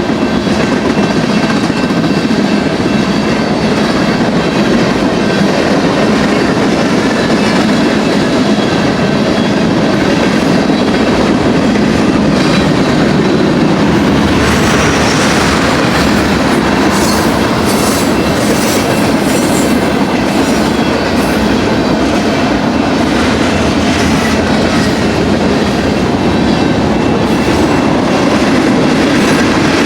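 Freight cars of a long BNSF manifest train rolling steadily past, wheels rumbling and clattering over the rails, with a faint high ringing from the wheels and rails.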